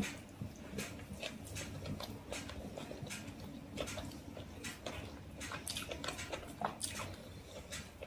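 Close-up eating sounds of rice and chicken curry eaten by hand: wet chewing and lip smacks, heard as an irregular run of short sharp clicks.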